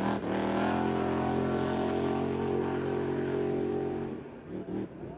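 Outlaw-class race boat engine running at a steady pitch as the boat moves away, then fading out about four seconds in.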